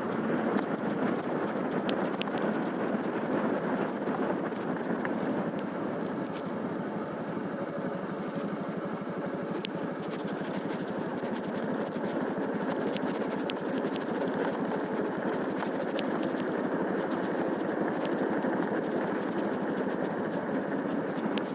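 Motorcycle running steadily while riding, its engine sound mixed with a continuous rushing noise, with a few faint ticks.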